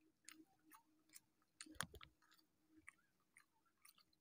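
Faint, close eating sounds of a man eating rice and rui fish curry by hand: moist chewing and a string of short, wet clicks and smacks, with one sharper click a little under two seconds in.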